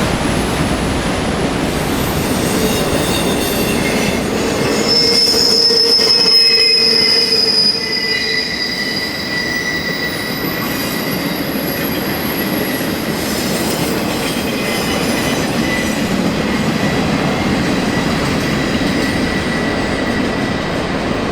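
Train rolling past with its steel wheels squealing against the rails: long, high, steady screeching tones over the continuous rumble of the cars, loudest around six seconds in.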